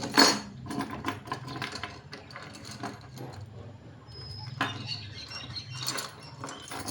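Small metal parts and hand tools being handled: irregular clicks and clinks, with a sharp knock just after the start.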